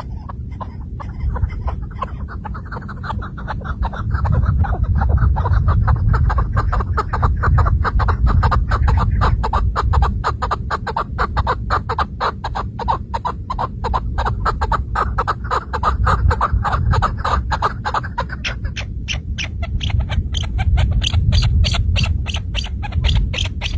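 Partridge calling a long, rapid run of short, evenly repeated clucking notes. The notes turn higher-pitched about two-thirds of the way through. A steady low rumble runs underneath.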